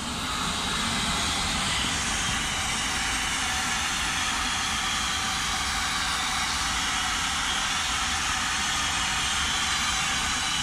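Freight train passing close by: a Bombardier TRAXX DC electric locomotive goes past at the start, followed by its tank wagons rolling by with a steady rumble and rattle of wheels on rail. It grows louder over the first half-second, then holds steady.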